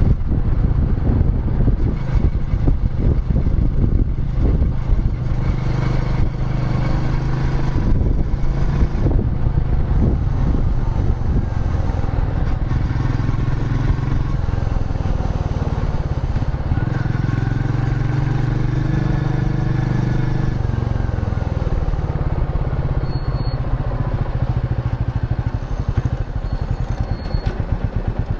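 Royal Enfield Meteor 350's single-cylinder engine running while riding, its low exhaust note steady apart from a few changes in engine speed.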